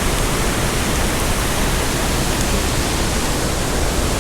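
Loud, steady rushing of a steep mountain creek's waterfalls and cascades.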